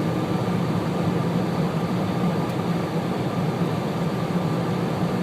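Steady drone of engine and tyre noise inside a moving car's cabin, cruising at reduced speed on a snowy highway.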